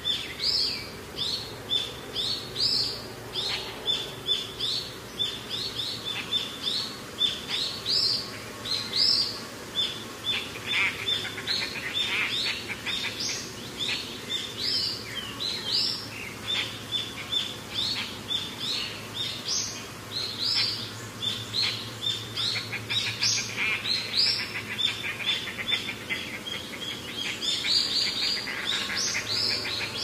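Birds chirping: a busy chorus of short, high, rising calls repeating several times a second, with no pause.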